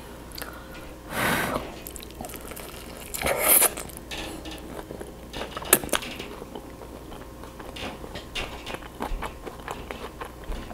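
Close-miked biting and chewing of fried chicken dipped in melted stretchy cheese, with wet mouth clicks. A few louder noisy bursts come in the first four seconds, then a run of small clicks through the second half.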